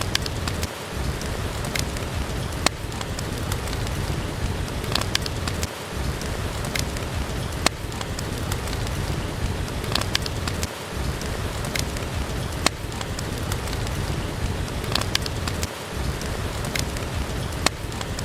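Steady rain with a deep rumble, with sharp crackles from a wood fire scattered through it. The whole sound dips briefly about every five seconds.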